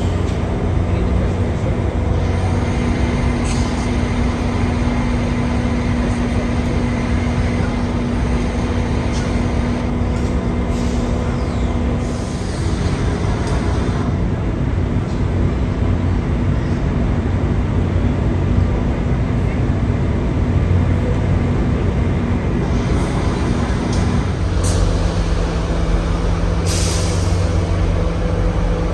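Locomotive running at a standstill: a steady low drone whose pitch shifts twice. Short hisses of released air come near the end.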